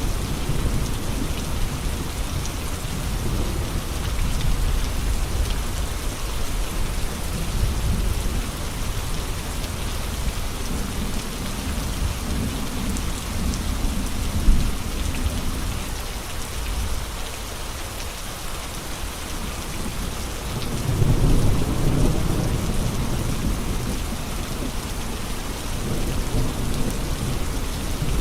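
Steady heavy rain with gusts of wind rumbling low underneath, swelling and easing, the strongest gust about three quarters of the way through. A single brief sharp knock about halfway.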